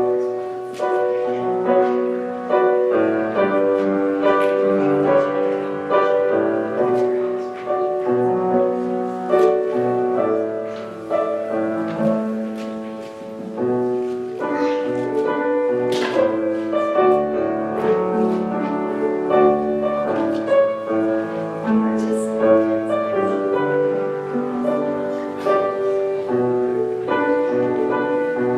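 Solo piano playing a hymn arrangement, with chords and melody notes in a flowing, continuous line; it starts suddenly right at the beginning.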